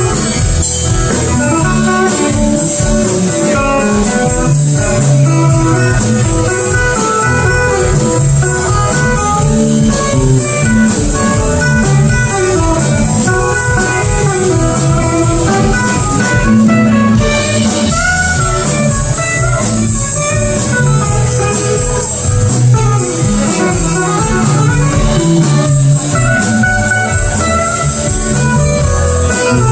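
Live band playing an instrumental break, a guitar taking the lead over the rest of the band.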